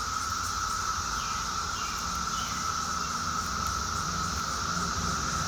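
Steady, unbroken drone of an outdoor insect chorus, with a few faint short chirps about two seconds in.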